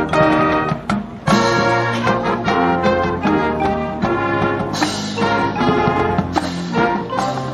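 Marching band brass section, trombones and trumpets, playing loud sustained chords, with a brief break about a second in before the full band comes back in.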